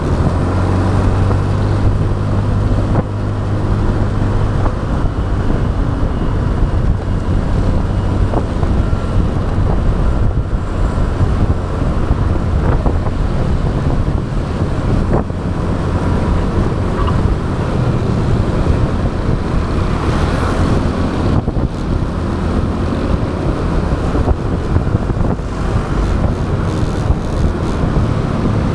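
Motorbike riding along a road: the engine runs with a low hum under a steady rush of wind over the action camera's microphone and road noise. The hum is strongest in the first few seconds.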